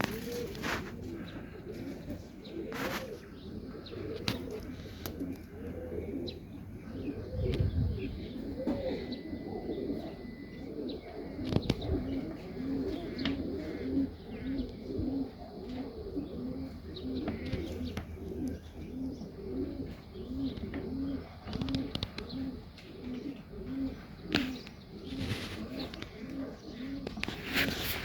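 Domestic pigeons cooing over and over, a run of low, evenly repeated coos that becomes very regular in the second half, with a couple of dull thumps partway through.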